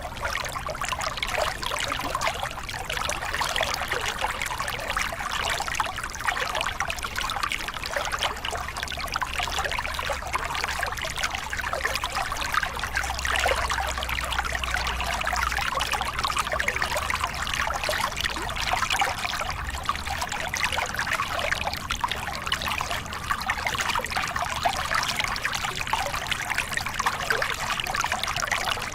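Small river cascade: water pouring over rocks and splashing in a steady rush.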